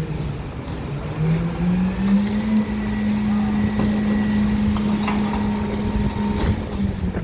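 A vehicle engine running, its pitch rising over the first few seconds, then holding steady and dropping again near the end.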